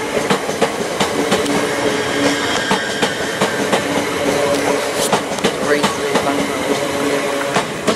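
Greater Anglia electric multiple-unit passenger train passing along the platform, its wheels clicking over the rail joints under a steady rumble, with a low hum that comes and goes.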